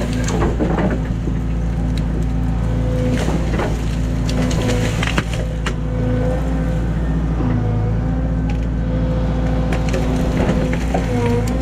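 A Cat excavator's diesel engine running steadily while wood cracks and splinters again and again as trees and branches are broken and crushed.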